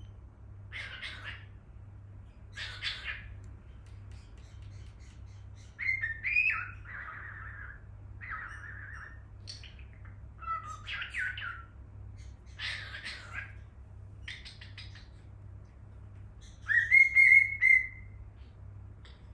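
A cockatiel chirping and whistling: a string of short chirps and squawky calls with a few longer whistled notes, the loudest a held whistle about three quarters of the way through.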